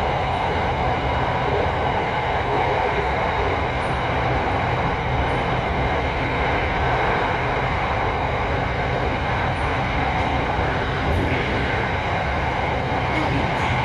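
Electric commuter train of the SRT Light Red Line running at steady speed, heard as a continuous rumble and rush of wheels on rails. Several steady tones run through the noise throughout.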